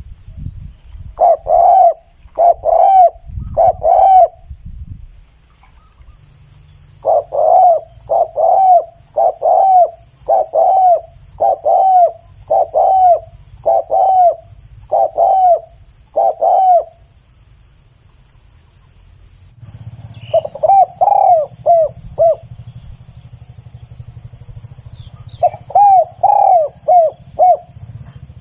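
Spotted dove cooing in runs of short arching coo notes: a few notes, then a long steady series, then shorter phrases after pauses. A faint high pulsing insect buzz runs underneath from a few seconds in.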